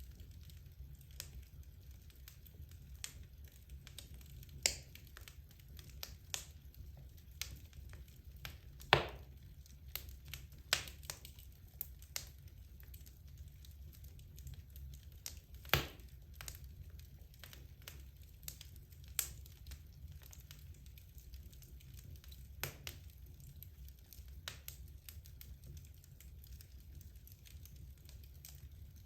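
Wood logs burning in a fireplace, crackling with irregular sharp pops over a low steady rumble of the fire. A couple of pops stand out louder than the rest, about a third of the way in and again about halfway.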